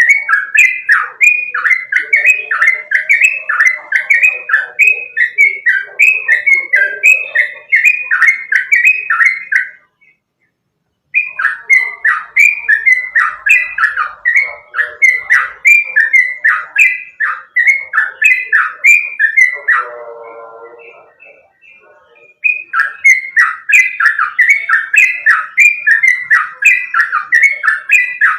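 Yellow-vented bulbul song: a fast, loud run of repeated chirping notes. It breaks off for about a second roughly ten seconds in, and again after a lower, buzzier call near twenty seconds, then starts up again.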